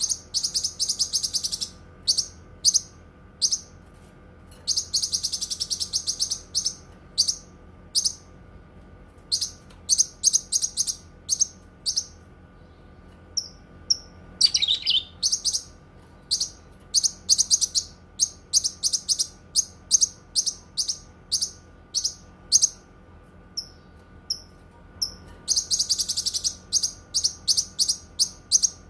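Cucak kinoi songbird singing: bursts of very high, rapid ticking notes running into dense, fast trills, with pauses between bursts and one falling note about halfway through. A faint steady hum lies underneath.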